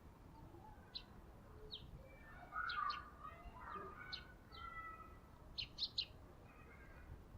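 Wild garden birds chirping: scattered short, sharp chirps with some softer twittering, ending in three quick chirps in a row.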